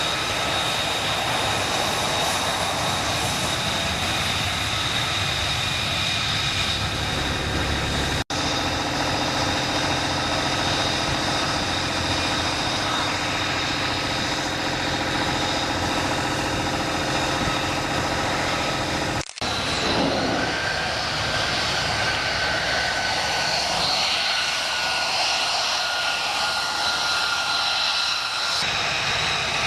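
F-35B jet engine running loud and steady close by, with a high whine over a broad rush of jet noise. The sound breaks off for an instant twice, about a third and two thirds of the way through, and in the last part a whining tone slowly falls in pitch.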